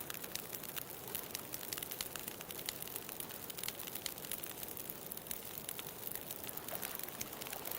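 Wood bonfire crackling, with frequent sharp pops and snaps over a steady background hiss of ocean surf.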